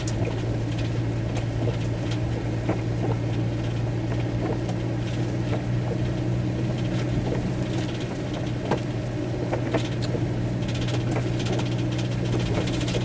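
Rain pattering on a van's roof, with many small scattered drop ticks, over a steady low hum.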